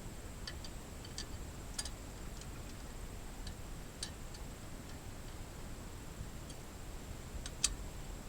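A dozen faint, sharp clicks and light taps at irregular intervals, over a low steady background hum.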